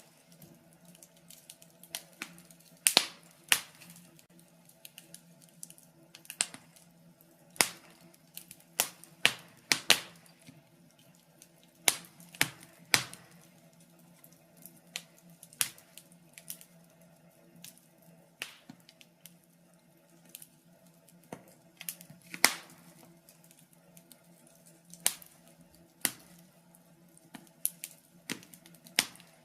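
Wood fire crackling: irregular sharp pops and snaps at uneven intervals, some loud and some faint, over a faint steady low hum.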